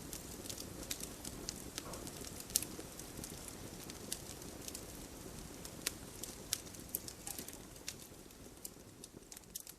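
Wood campfire crackling: irregular sharp pops and snaps over a soft low rush of burning, growing quieter near the end.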